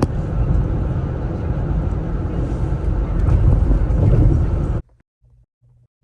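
Loud, steady low rumble of a vehicle, with wind buffeting the microphone; it cuts off abruptly about five seconds in.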